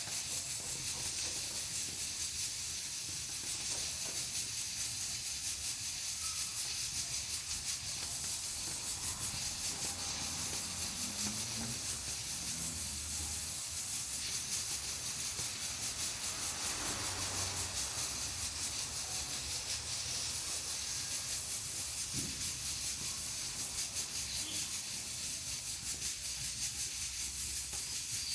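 Pressure cooker on a wood-burning stove, hissing steadily as steam escapes through its valve.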